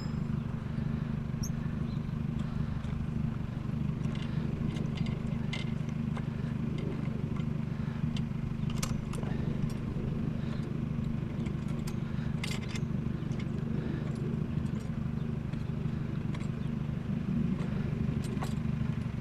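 Steady low rumble like an idling vehicle engine, with scattered light clicks and taps of hand tools working on a discarded sink's fittings.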